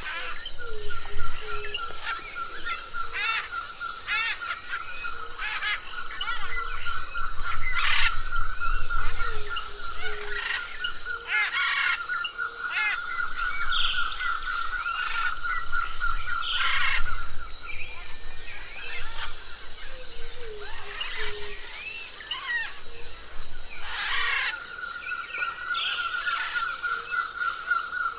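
Parrots chirping and whistling over one another in quick, overlapping calls. Behind them a steady rapid trill runs on, breaks off about two-thirds of the way through, and comes back near the end.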